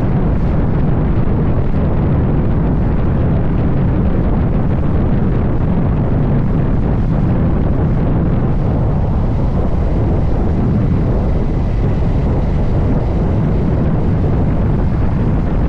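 Wind rushing over the microphone of a camera on a moving motorcycle: a steady low roar that covers the engine and road noise.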